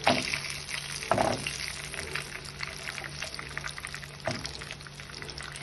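Flour-battered shrimp frying in shallow oil in a pan, with a steady sizzle full of small pops and crackles. Three louder knocks stand out: one at the start, one about a second in and one a little after four seconds.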